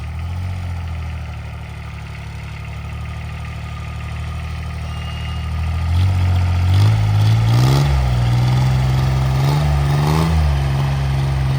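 Engine of a homemade 26 hp tractor running steadily at low speed, then revving up about six seconds in, easing off briefly and rising again near ten seconds before holding at the higher speed.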